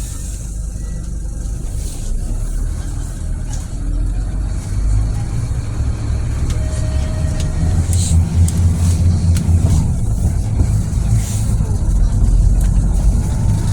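Scania city bus's diesel engine pulling away and accelerating, a deep low drone that grows steadily louder.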